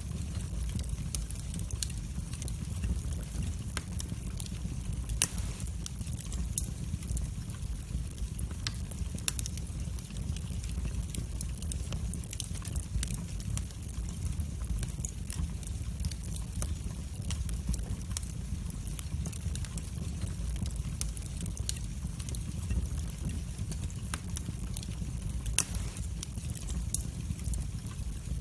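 Wood fire burning in a fireplace: a steady low rumble of the flames with frequent sharp crackles and pops, two of them louder, about five seconds in and near the end.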